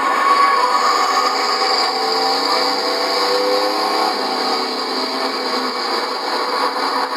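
Engines of many race trucks running at once during a truck enduro, a steady mechanical sound in which several engine pitches glide up and down as the trucks accelerate and lift off. It sounds thin, with no deep bass.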